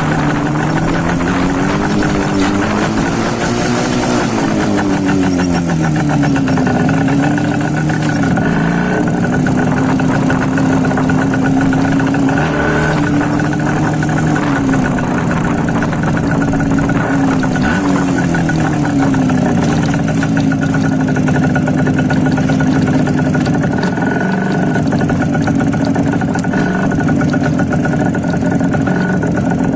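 IZh Jupiter-5 two-stroke twin-cylinder motorcycle being ridden with the baffles removed from its mufflers. The engine note rises and falls several times with throttle and gear changes, with steady stretches in between.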